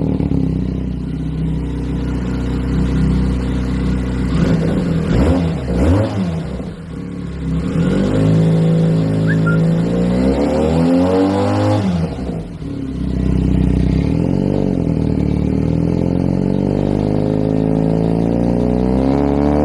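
Benelli 302R's 300 cc parallel-twin engine and exhaust being revved: quick rises and falls in pitch about four to six seconds in, a longer rise and fall from about eight to twelve seconds, then running steadily and slowly climbing in pitch toward the end.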